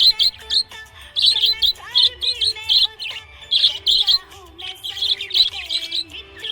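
A budgie chirping in quick bright bursts, grouped in clusters about once a second, over background music with a melody.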